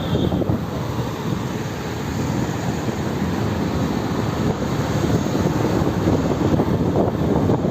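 Steady rushing noise of a motorbike ride: wind on the microphone mixed with engine and road noise.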